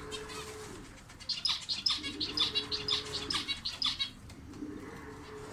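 Small cage birds chirping in a quick run of high, sharp chirps, several a second, for about three seconds. A low, drawn-out held tone comes and goes underneath.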